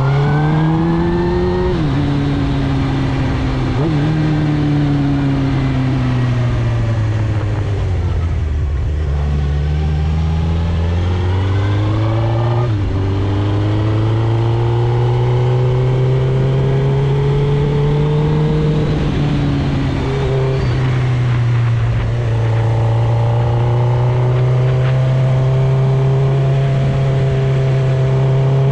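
2006 Suzuki GSX-R1000 K6's inline-four through a full Akrapovic titanium exhaust, heard from on the bike. The revs climb and then drop sharply at each upshift, and fall away for several seconds about a third of the way in as the bike slows. They climb again through the gears and settle into a steady cruise near the end.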